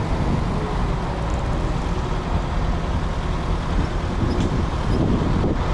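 A vehicle engine runs steadily under heavy wind buffeting on the microphone.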